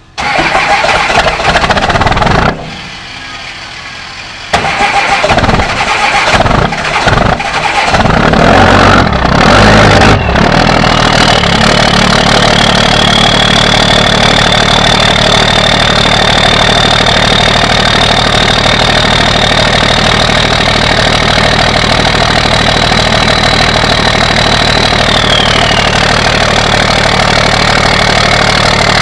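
Diesel pickup engine cold-starting in bitter cold: it cranks unevenly for several seconds, catches about ten seconds in, and settles into a steady idle. A high whine rides over the idle and drops in pitch near the end.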